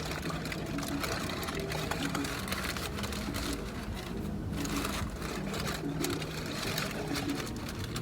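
Close-up chewing and mouth noises of someone eating a bacon burger: a steady run of irregular small wet clicks and smacks.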